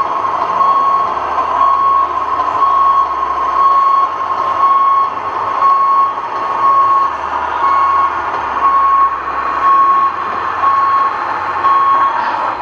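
Scale RC truck's sound-module reversing beeper: a single-pitched beep repeating about one and a half times a second over steady engine noise, stopping shortly before the end.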